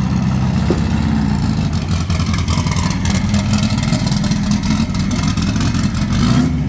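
Race-tuned VW bug engine running loud and steady with rapid, even firing pulses, dipping briefly near the end.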